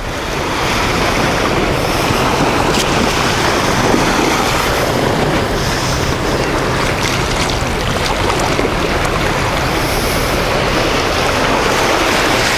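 Sea surf washing on the beach, a steady rushing noise, with wind buffeting the microphone.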